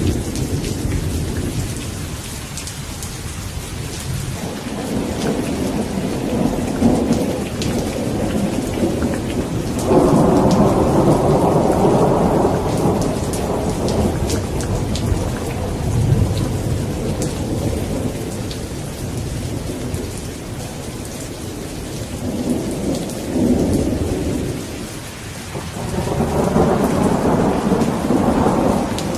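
Steady rain falling, with rolling thunder swelling and fading several times, the longest and loudest rumble starting about a third of the way in.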